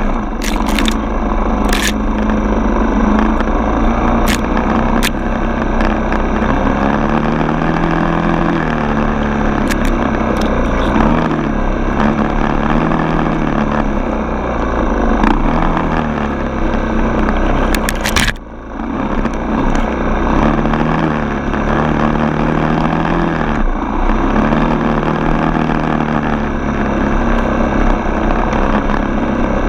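Four-stroke single-cylinder dirt bike engine running under way, its revs rising and falling as the throttle opens and closes. There is a brief drop off the throttle about 18 seconds in, and a few sharp clicks in the first few seconds.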